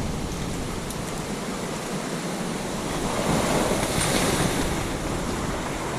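Sea surf washing in, with wind buffeting the microphone; a wave surges louder about halfway through.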